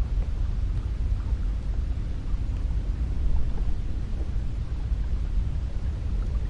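Cold wind blowing steadily, heard mostly as a low rumble.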